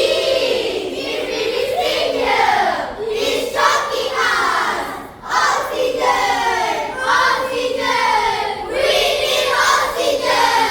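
A group of children singing a song together in unison, in several phrases with short breaks between them.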